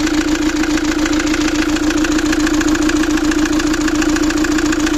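Fiat Doblo 1.9 JTD four-cylinder diesel engine running steadily with a fast, even knock. The mechanic traces the knock to a scored cylinder wall, with marks on the piston that he takes for valve strikes.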